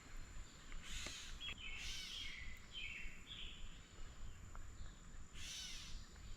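Faint bird calls over low outdoor background noise, with a few brief hissing bursts.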